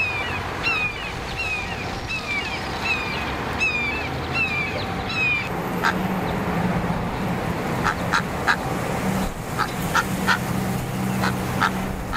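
Birds calling. For the first five seconds a repeated chirping call comes about every two-thirds of a second. Then short, sharp calls come in scattered groups over a low steady hum.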